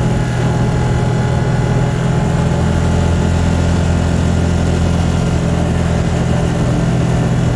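Vehicle engine and road noise heard inside the cabin while driving: a steady low drone.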